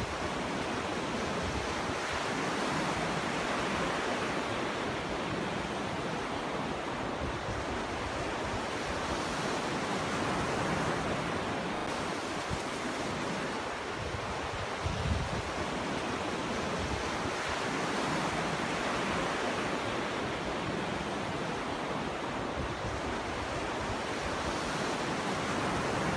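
Ocean waves breaking and washing up a beach, a steady surf rush that swells and eases every few seconds, with a low thud of a breaking wave about midway.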